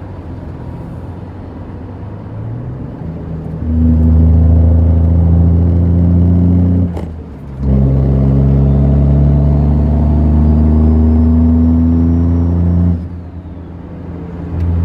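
Dodge Ram's Cummins turbo-diesel, running on 250% injectors, pulling hard under acceleration through the gears. Two loud pulls each end in a brief dip as the driver shifts, with a faint whistle rising over the second pull.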